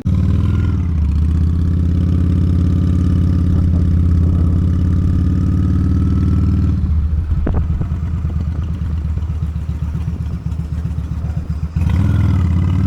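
Honda Steed V-twin motorcycle engine running, coming in abruptly and holding a steady note. About seven seconds in it drops to a rougher, lower pulsing, then picks up again near the end.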